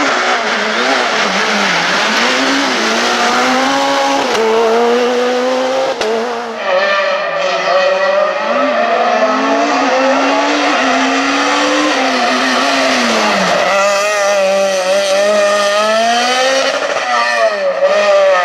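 Super 2000 rally car's naturally aspirated 2.0-litre four-cylinder engine driven hard on a stage, its revs climbing and dropping again and again through gear changes and corners. A noticeable change in the sound about six and a half seconds in.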